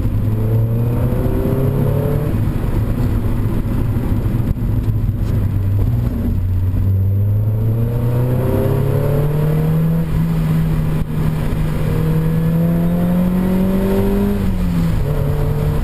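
Mazda MX5's 1.8-litre four-cylinder engine and IL Motorsports cat-back exhaust heard from inside the cabin while driving, the engine note held steady, then rising slowly as it pulls. Near the end the revs drop sharply, as at a gear change or lifting off.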